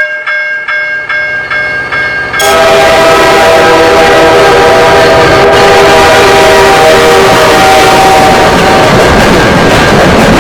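Railroad crossing bell ringing rapidly, about four strokes a second. About two and a half seconds in, a train's horn blasts a loud, steady chord over the noise of the train passing the crossing. The horn stops near the end while the train keeps rolling by.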